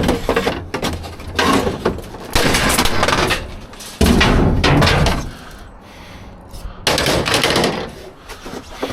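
Several loud bangs and clattering crashes as scrap metal and junk are pulled out and tossed around in a dumpster, about five separate crashes.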